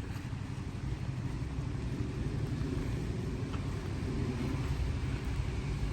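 Steady low rumble of road traffic, swelling slightly after the first second.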